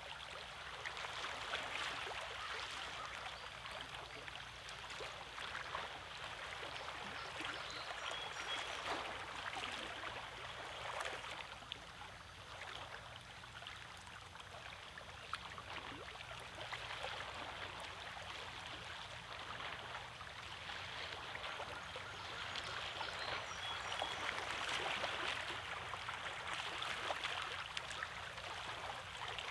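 Small lake waves lapping and splashing against shoreline rocks: a steady wash of water full of small splashes, swelling and easing every few seconds.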